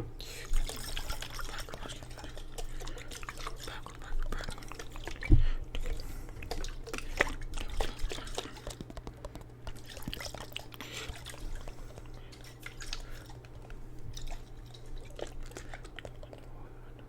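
Water dripping and splashing in a jar, picked up close to the microphone as irregular small clicks and splashes, with one louder knock about five seconds in.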